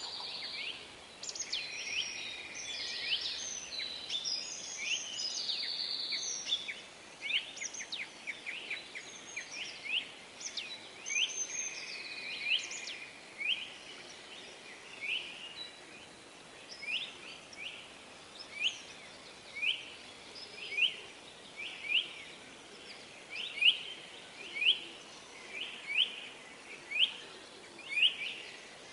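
Birds chirping: a busy overlap of short calls at first, then a single short chirp repeated about once a second, over a faint hiss.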